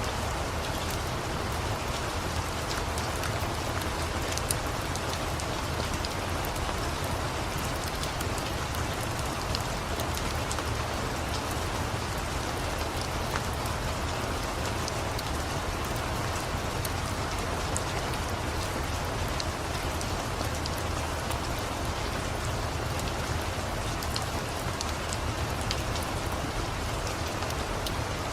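Steady rain falling, an even hiss with scattered sharp crackles and ticks on top from a crackling wood fire.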